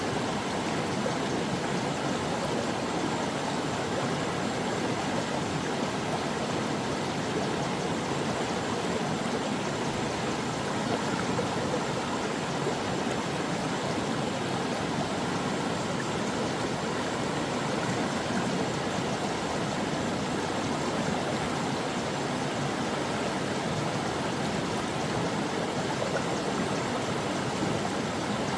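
A brook rushing and burbling over stones in a steady, unbroken flow.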